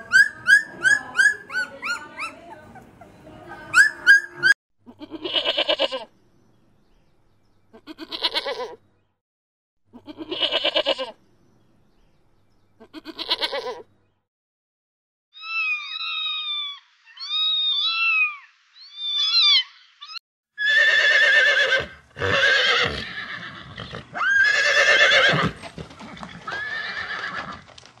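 A young puppy whimpering and yipping for the first few seconds. Then come sheep bleating, four single quavering bleats a couple of seconds apart, three short clusters of higher, quicker calls, and a stretch of louder, overlapping bleats near the end.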